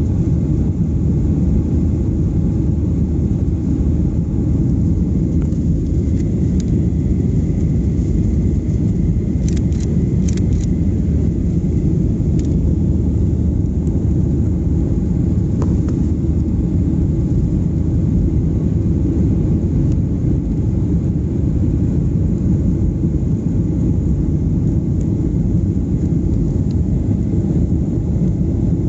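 Boeing 737-800 cabin noise: the steady, loud low rumble of the CFM56 jet engines and airflow heard from inside the passenger cabin, with a few short clicks about ten seconds in.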